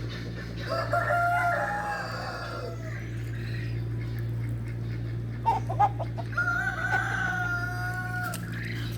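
A rooster crowing twice, each crow a long held call of about two seconds, the second starting about six seconds in. A few short clicks come between the crows, over a steady low hum.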